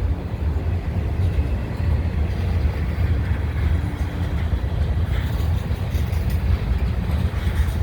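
A freight train of empty autorack cars rolling past at track side, a steady low rumble of wheels on rail.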